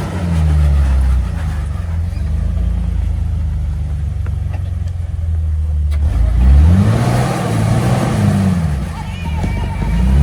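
Jeep engine running steadily under load, then revving up and down several times in the second half as it works over the trail.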